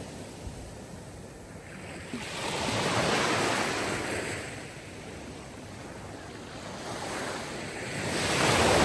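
Sea surf washing onto a shore: a steady hiss of water that swells into a breaking wave about three seconds in and again near the end.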